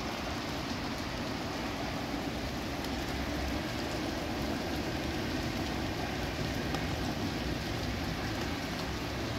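Steady rain falling on a wet street and its surroundings: an even hiss with faint scattered ticks of drops.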